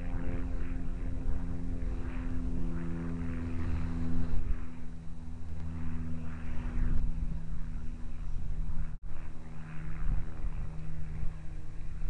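Propeller aircraft engine droning steadily, its pitch shifting a few times, with a brief dropout about nine seconds in.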